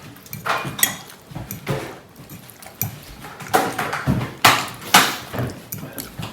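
Spoons and dishes clinking and knocking at a meal, in irregular short strikes, some with a brief ring.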